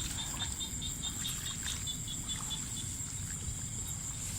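Night insects calling: a steady high-pitched trill, with a second insect's rapid regular chirping, about four to five pulses a second, that stops about two seconds in.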